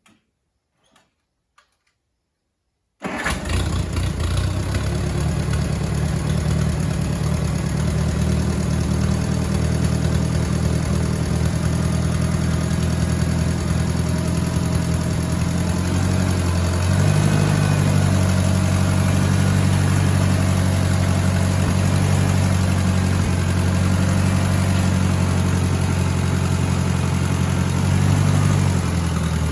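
Allis-Chalmers tractor engine running at idle, coming in suddenly about three seconds in. Its speed steps up a little about 17 seconds in and drops back near the end.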